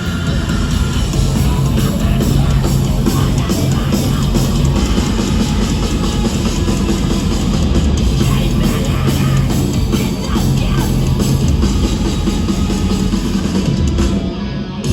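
Live post-hardcore rock band playing an instrumental passage with guitars and a drum kit, loud and steady, with a short drop just before the end.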